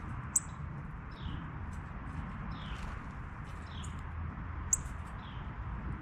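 A small bird at a backyard feeder chirping: short, falling chip notes repeated about once a second. Two sharp ticks stand out, one near the start and one near the end, over a steady low background rumble.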